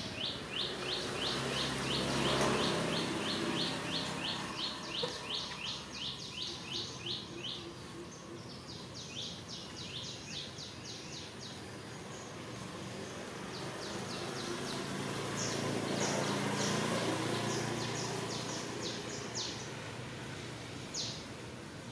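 A bird calling in long runs of short, high, down-slurred chirps, about four a second, with a pause around the middle. Under the calls is a low droning hum that swells twice.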